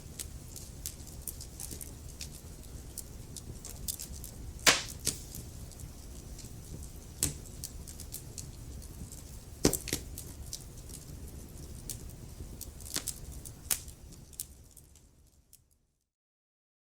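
Wood fire in a fireplace crackling over a low steady rumble, with sharp pops, the loudest about five and ten seconds in. The sound fades out to silence about fifteen seconds in.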